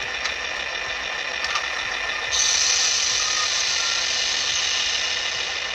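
Diesel engine sound from a model GP40 locomotive's sound system, running steadily through a small speaker, with a brighter hiss joining about two seconds in for a few seconds.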